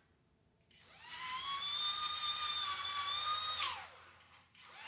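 Small electric motor of an Aurora HO slot car whining at high pitch under throttle, like a dentist's drill: it rises as the car speeds up, holds steady for about three seconds, then drops off, and a second burst starts near the end.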